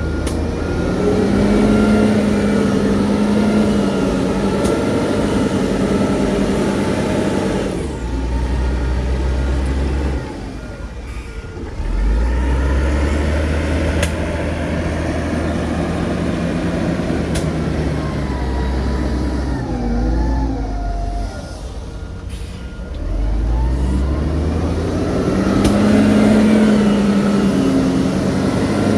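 Heavy diesel machinery working: a dozer or dump-truck engine labours and eases off in repeated cycles, with dips in level about eight and twenty-one seconds in. A reversing alarm beeps steadily at times.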